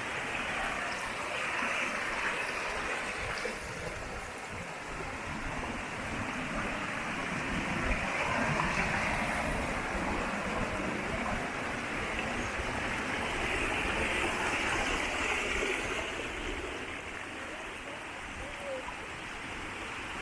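Steady rush of running water, a stream or falls on a forest trail, swelling and easing slightly.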